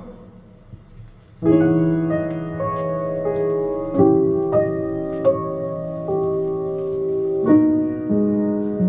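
Solo piano playing slow, sustained chords played back from a vinyl record, entering about a second and a half in after a short quiet gap, with new chords struck about every three seconds.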